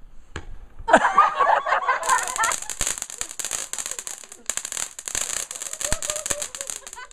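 Small garden firework crackling, a dense, rapid run of pops over a steady hiss that begins about two seconds in and thins out near the end. A single sharp pop comes just before, followed by a burst of wavering high-pitched sound.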